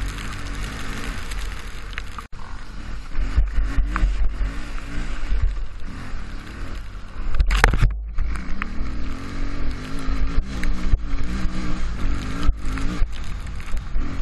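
Dirt bike engine running and revving up and down, over a heavy low rumble, with a short loud noise about halfway through.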